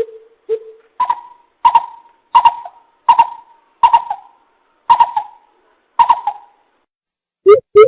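Coucal (bìm bịp) lure call: a series of short, deep hoots about two every three seconds. The first few are lower and the rest a step higher. Near the end, after a short pause, a faster run of lower hoots begins.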